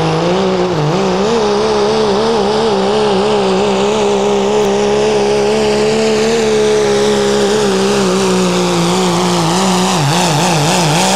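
Pro street diesel pulling truck with a 12-valve Cummins engine running at full throttle under load as it drags the sled, its pitch wavering up and down. Near the end the pitch wobbles rapidly.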